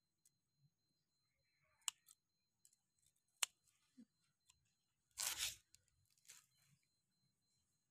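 Mostly quiet, with a few sharp clicks and one short rustling scrape about five seconds in.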